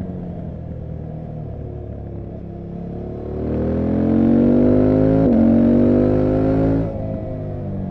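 KTM 790 Adventure R's parallel-twin engine running under way, heard through its exhaust. About three seconds in the throttle opens and the engine pulls louder with rising pitch, with a quick upshift about two seconds later, then the throttle snaps shut near the end and it drops back to a lower note.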